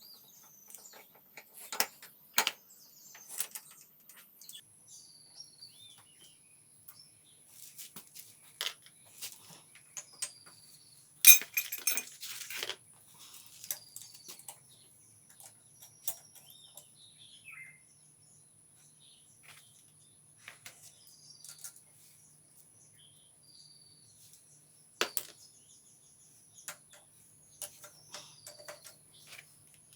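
Scattered metal clinks and knocks of tools and parts being handled, with a denser burst of rattling about eleven seconds in and a sharp knock near twenty-five seconds. Birds chirp on and off behind it.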